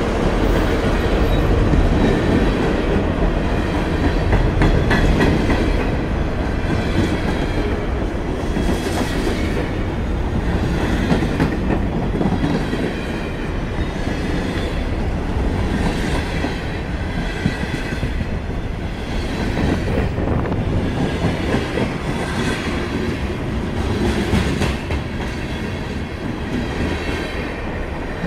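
Vermont Railway freight train rolling past at close range, its covered hoppers and tank cars' steel wheels rumbling on the rails and clicking over the rail joints, with a faint wheel squeal at times.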